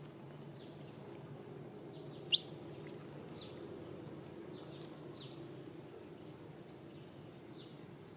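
Small birds chirping: short high calls falling in pitch, about one a second, over a steady low background hum, with one sharp click or chirp about two seconds in.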